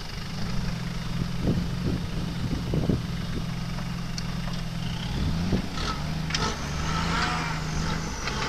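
Off-road 4x4 engines running steadily under load as one vehicle pulls another, bogged in sand, out on a tow strap; the engine note rises about five seconds in.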